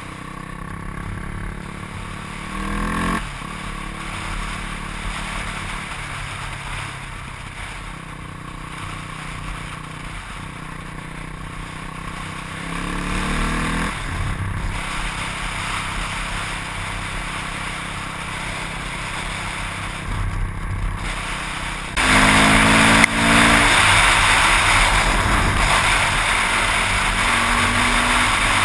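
Yamaha WR400F single-cylinder four-stroke dirt bike engine running while ridden, revving up in several rising pulls as it accelerates. About three-quarters of the way through it gets suddenly louder, with heavy wind rush over the helmet-mounted microphone as the bike speeds up.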